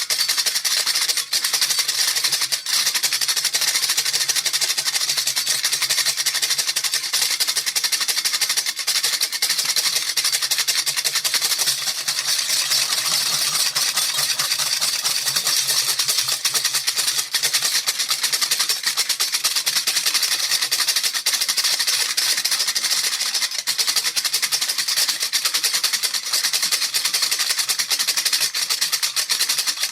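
Baby rattle shaken nonstop, giving a dense, steady rattling hiss.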